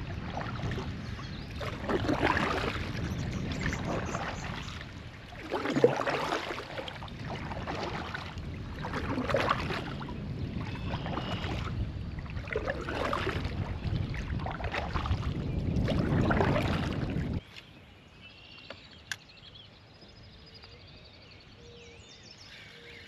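Wind buffeting the microphone on a kayak on open water, in gusts every few seconds, which cuts off suddenly about three quarters of the way through. A quieter stretch follows, with a single sharp click.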